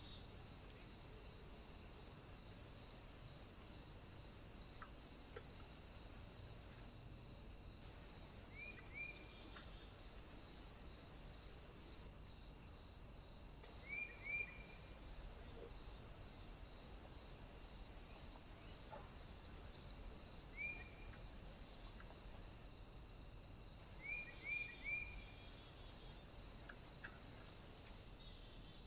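Short bird chirps, in clusters of two or three a few times, over a steady high hiss and a faint, even ticking.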